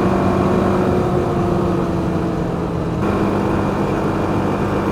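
BMW G310GS single-cylinder engine running under way, with wind and road noise; its pitch sags slightly over the first couple of seconds and shifts about three seconds in.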